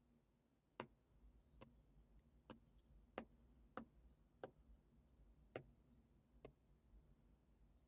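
Faint, light clicking taps on a tablet, about eight unevenly spaced taps, roughly one a second, over a low room hum.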